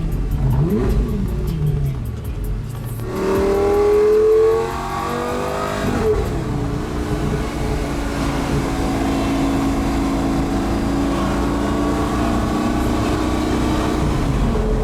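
Supercar engines revving and accelerating: a hard rise in engine pitch about three seconds in, the loudest part, a sharp drop in revs about six seconds in, then a steady engine note.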